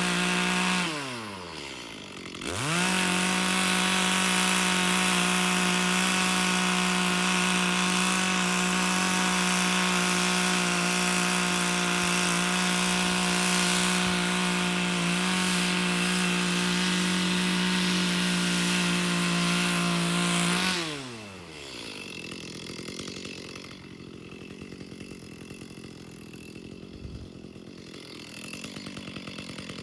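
Chainsaw running at high revs, cutting raw logs. About a second in the revs drop briefly and climb straight back. Near 21 s the revs fall away and it goes much quieter for the last several seconds.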